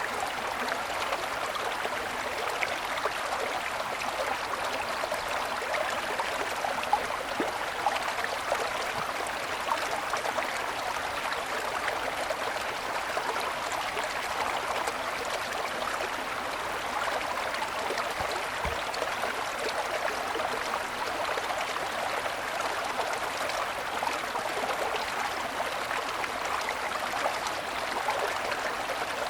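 Small mountain stream in winter, its water running steadily with a continuous splashing rush.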